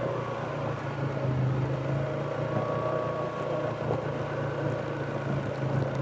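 2015 Polaris 570 ATV's single-cylinder engine running at a steady speed as the quad is ridden, a constant low hum that holds the same pitch throughout.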